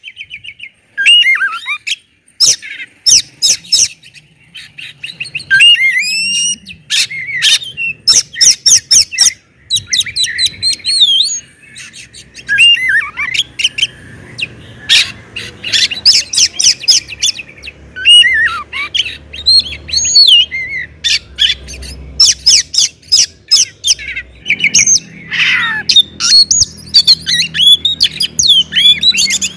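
Oriental magpie-robin (kacer) singing loudly in full song: a fast, varied stream of gliding whistles, rapid trills and sharp chirps in phrases with short gaps between them.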